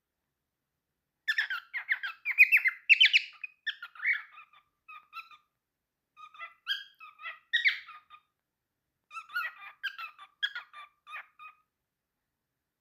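Cockatiel chirping and chattering in three bouts of quick, short notes, with brief pauses between them.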